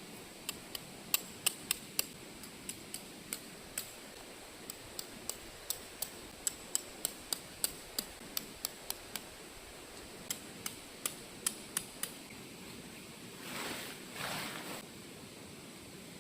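A long run of sharp, light clicks at uneven spacing, about two or three a second, stopping about twelve seconds in, followed by two brief rustles near the end.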